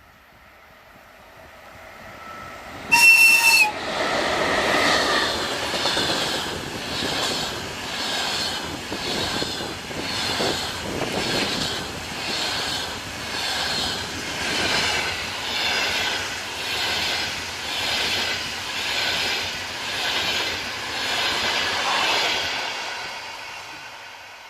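A VL10 electric locomotive gives one short horn blast about three seconds in. Its passenger train then passes at speed, the wheel noise swelling about once a second as each coach goes by, and fades away near the end.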